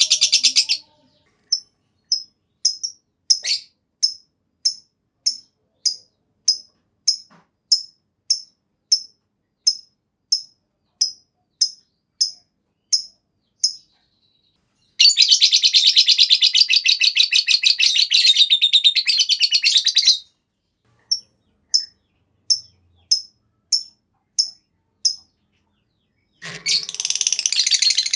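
A lovebird gives a run of short, shrill chirps at about two a second. A long, rapid chattering trill (the 'ngekek panjang' prized in singing lovebirds) breaks in after about fifteen seconds, lasts about five seconds, and starts again near the end after more chirps.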